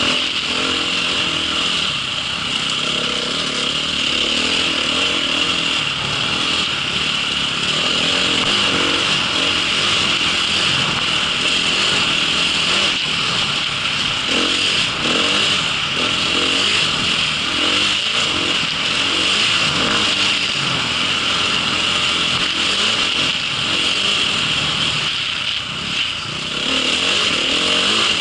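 Small engine of a vehicle running steadily while being ridden, with a constant high hiss over it and a brief drop in level about 26 seconds in.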